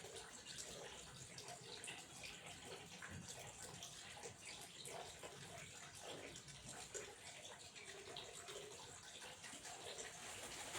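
Faint, steady flowing water with small, uneven splashes and trickles running through it.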